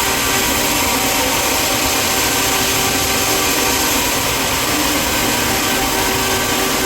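Sawmill machinery running: a loud, steady hiss with a few faint constant tones, never letting up.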